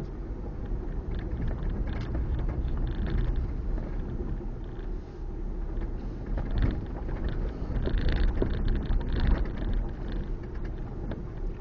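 Car driving slowly on a gravel road, heard from inside the cabin: a steady low engine and road rumble with a constant crackle of small clicks from stones under the tyres.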